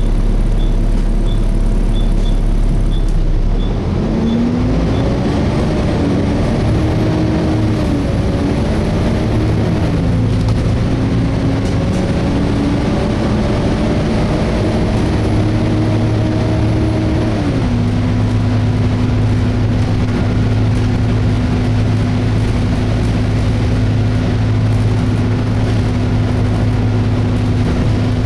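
Inside a Volvo B7TL double-decker bus, the diesel engine idles with a light ticking about twice a second. About four seconds in, the bus pulls away and the engine rises in pitch through several automatic gear changes, then settles to a steady cruise from about eighteen seconds.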